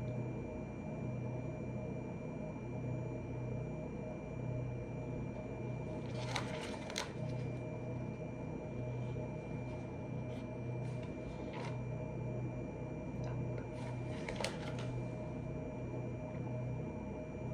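Steady low hum of room background noise, with a few short clicks and taps scattered through it, two close together about six to seven seconds in and another pair near fourteen seconds.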